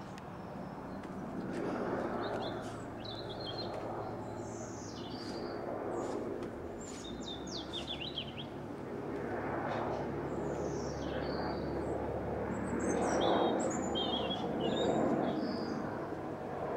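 Small birds chirping and twittering on and off, short high calls and trills, over a steady background rushing noise that swells and fades several times.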